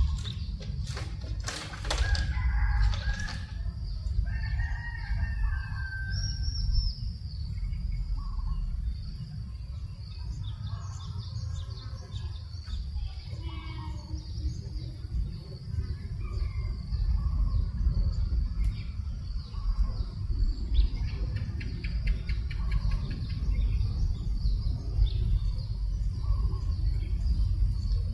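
Outdoor farm ambience: birds call and chirp on and off over a steady low rumble of breeze on the microphone. A few sharp flaps or knocks come in the first few seconds.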